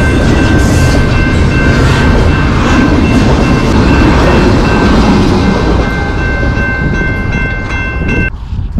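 A train passing close by on the tracks: loud, dense rolling and rattling noise with several steady high tones held over it. It starts and cuts off suddenly.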